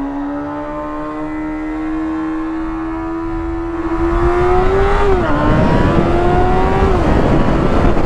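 2006 Yamaha FZ6's inline-four engine accelerating, its pitch slowly rising. It drops sharply with an upshift about five seconds in and again near seven seconds. Wind rush builds as the bike gathers speed.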